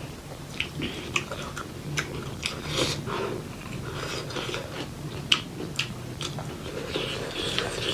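Close-up eating sounds: chewing and mouth smacks with sharp little clicks while eating pork leg curry with rice.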